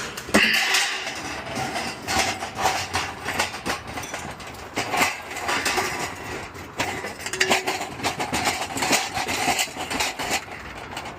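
Scrap metal and debris being tossed and dropped into a trailer: a run of irregular clanks, knocks and rattles, some pieces ringing briefly.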